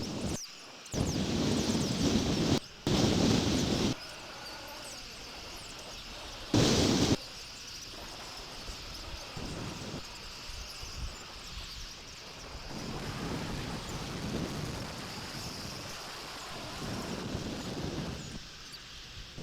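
Heavy rumbling buffets on an outdoor nest-camera microphone, three strong ones in the first seven seconds, then softer swells over a steady outdoor background.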